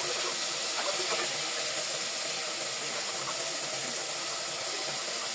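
Food frying in a pot with a steady sizzle, with a few scrapes of stirring in the first second or so.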